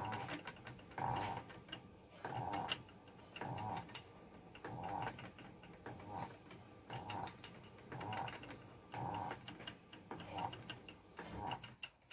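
Spinning wheel being treadled while yarn is spun, a rhythmic whirring pulse about once a second.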